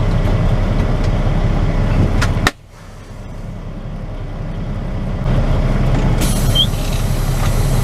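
Semi truck's diesel engine running, heard from inside the cab as a steady low rumble, with a couple of brief clicks just before the sound drops off sharply about two and a half seconds in; it then builds back up steadily over the next few seconds.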